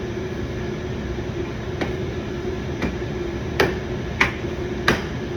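Plastic retaining clips on a Tesla Model Y wheel arch molding snapping into the fender holes as the molding is pushed on: five sharp clicks, the last three loudest.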